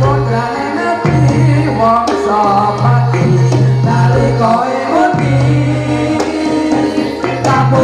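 Live jathilan accompaniment music: a singer's wavering melody over percussion and a deep held note that drops out and returns every second or so.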